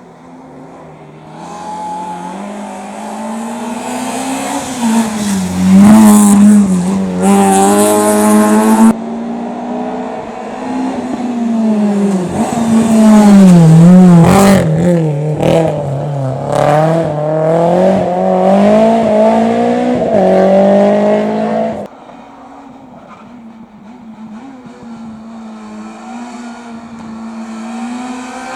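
Race car engine revving hard through a slalom course, its pitch dropping and climbing again and again as the car brakes and accelerates between chicanes. The sound cuts off abruptly about nine seconds in and again about twenty-two seconds in.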